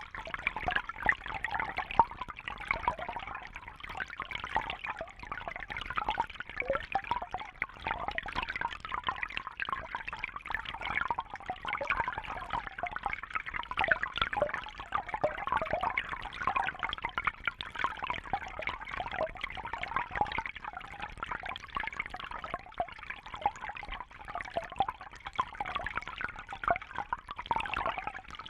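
Fish tank water trickling and gurgling steadily: a continuous stream of small splashes and bubbles.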